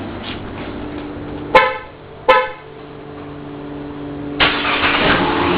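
Dodge Grand Caravan's horn beeping twice in short blasts, over a steady low hum. A rushing noise starts suddenly near the end.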